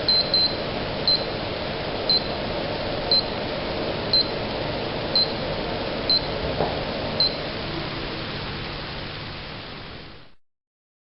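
Steady hiss with a short high electronic beep repeating about once a second, eight or nine times, then the hiss fades out and stops.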